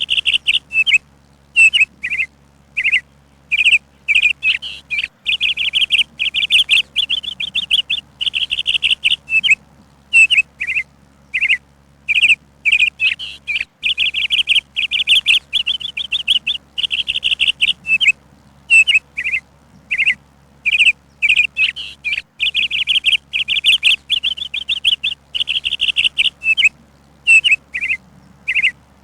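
A songbird chirping over and over, in short single notes and quick runs of rapid chirps, with brief silent gaps between the runs.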